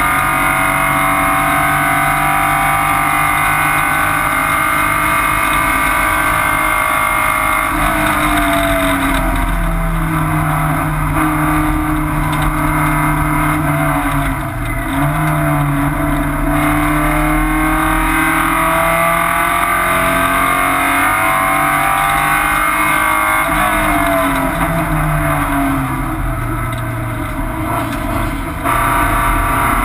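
Porsche 944's four-cylinder engine running hard, heard from inside the race car's stripped cockpit, its pitch climbing and falling repeatedly as the revs rise and drop, with a brief dip about halfway through and a longer fall near the end.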